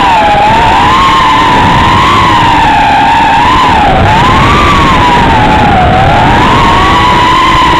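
HGLRC Parrot 120 Pro micro quadcopter's brushless motors whining in flight, the pitch gliding up and down over a rough hiss as the throttle changes.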